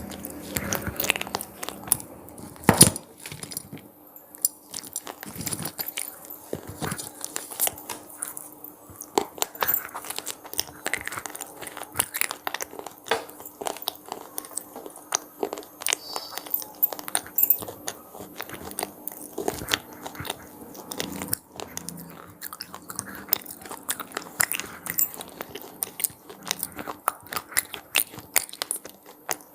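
Close-up crunching and chewing of crisp puffed corn snacks (cheese pizza flavoured crunchies), a dense run of sharp irregular crackles and bites, with a faint steady hum behind.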